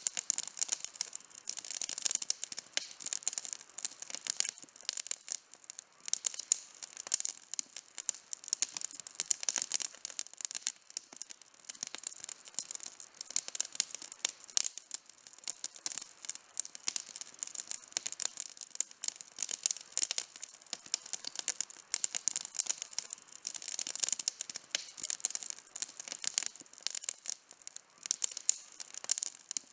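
Campfire burning with dense, continuous crackling: many small sharp pops and snaps from burning wood.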